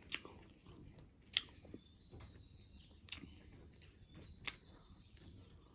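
A person chewing fish and rice, faint, with four sharp clicking crunches from the mouth spaced about a second and a half apart.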